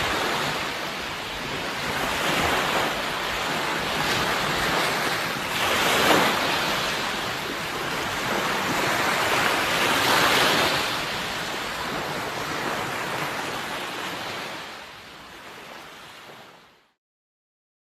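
Sea waves washing on a shore, swelling and breaking every few seconds. Near the end the surf fades away and cuts to silence for about a second.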